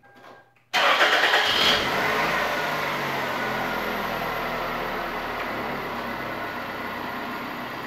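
A warmed-up car engine starting about a second in, running higher for a moment, then settling into a steady idle.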